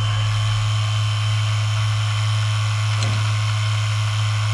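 Small refrigeration vacuum pump running steadily with a low electric-motor hum, evacuating a fridge's sealed system down to deep vacuum.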